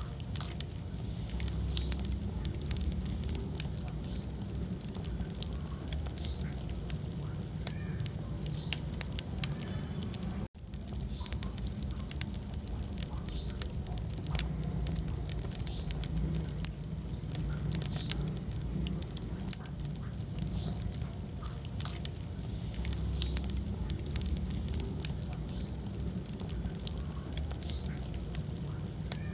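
Wood fire burning in a fireplace: a steady low rumble with dense crackling and popping throughout. The sound cuts out for a split second about ten seconds in.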